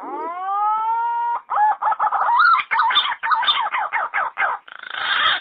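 Wild pigeon lure call: a whistled note that rises and then holds, followed by a run of quick warbling notes and a harsher, noisier stretch near the end.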